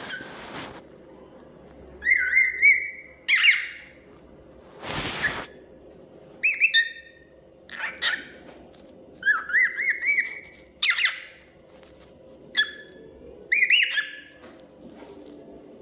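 Cockatiel whistling and calling: a string of short rising whistles and sharp chirps, coming every second or two, with one harsh noisy burst about five seconds in.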